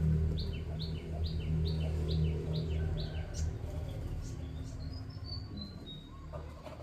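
Chick peeping: a run of about eight evenly spaced falling peeps, a little over two a second, then a few higher, softer notes, over a steady low hum.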